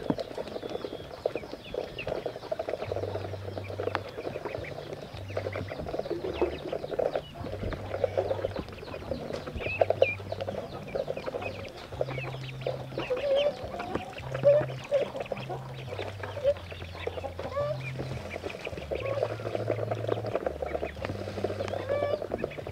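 A flock of farm poultry calling continuously: many short, overlapping clucks and calls.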